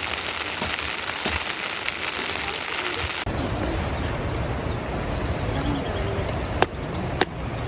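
Steady rain falling for about three seconds, then an abrupt change to a low rumble with faint voices, and two sharp clicks near the end.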